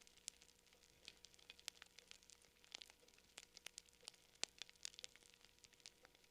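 Campfire crackling: irregular small pops and snaps, several a second, with one sharper snap a little past the middle.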